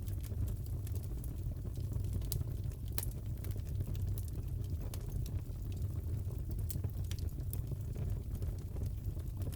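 Crackling fireplace: a steady low rumble of burning logs with irregular sharp pops and crackles, one louder pop about three seconds in.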